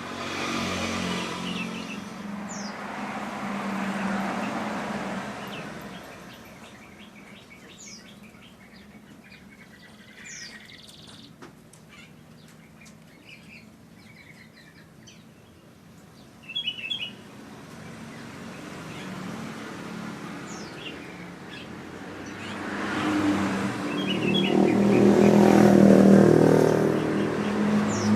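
Motor vehicles passing by twice: one fading away early on, then a louder one rising to a peak about 26 s in. In the quieter stretch between them, small birds chirp in short bursts.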